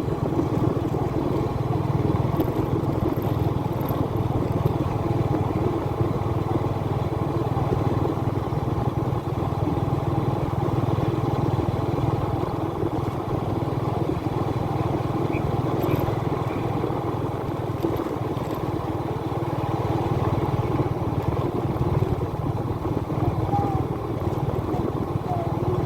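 Motorbike engine running steadily while being ridden, a constant drone with no breaks or changes in pace.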